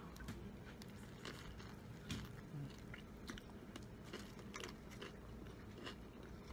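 A person biting into and chewing a breakfast sandwich close to the microphone, with scattered small crunches and clicks.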